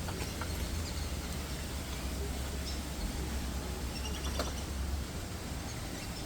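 Outdoor background with a steady low rumble that eases about five seconds in, and a few faint high bird chirps.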